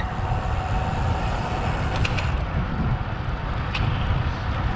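Wind buffeting an action camera's microphone while riding a road bike, a steady rumble with two faint clicks.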